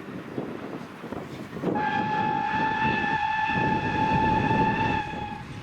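Locomotive whistle blown in one long steady note, starting about a second and a half in and stopping shortly before the end, over the rumble of a moving train.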